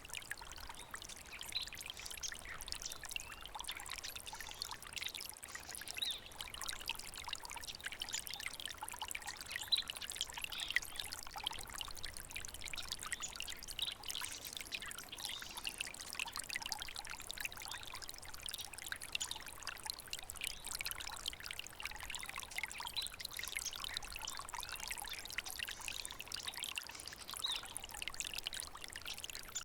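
A small stream babbling and trickling steadily over stones, with a constant rush of water and fine splashes.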